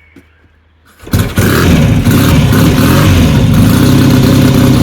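AJS 650 CSR parallel-twin engine being kick-started after its carburettor was primed and tickled. It fires and catches about a second in with a quick rise in revs, then settles into a steady, loud idle.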